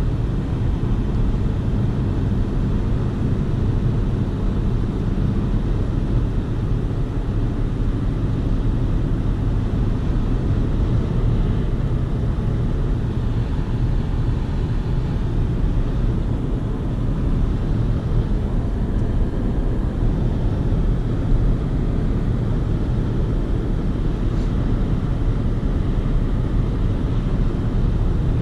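Steady road and engine noise inside the cab of a 2020 Chevy Colorado pickup cruising along, a constant low rumble of tyres and drivetrain.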